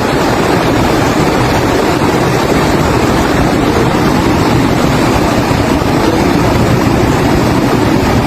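Loud, steady rushing of fast-moving floodwater.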